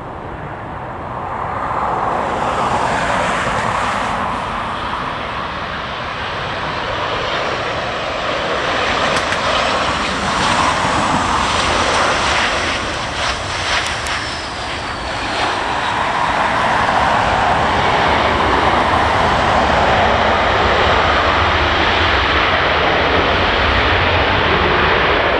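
Jet airliner engines rushing loudly, with a high whine that falls in pitch about halfway through; the noise then holds loud and steady.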